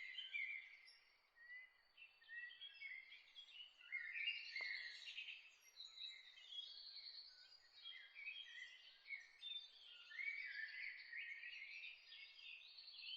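Several songbirds chirping and trilling over one another in a faint steady outdoor hiss, with a single soft click about four and a half seconds in.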